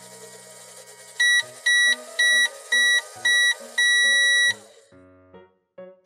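Toy microwave beeping: five short, loud, high electronic beeps in an even rhythm, then one longer beep, the 'done' signal at the end of a cooking cycle. Soft background music plays underneath.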